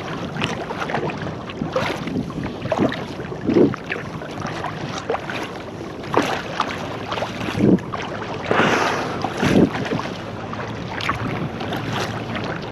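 Water splashing and sloshing against a kayak, in irregular splashes every second or two, with wind buffeting the microphone.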